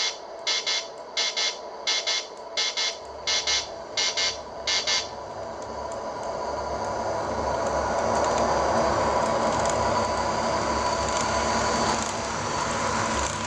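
Sound system of an MTH RailKing R26/R28 Redbird subway model set: a buzzer beeping over and over, stopping about five seconds in, as a low rumble of subway motor and running sounds comes in and swells to a steady level.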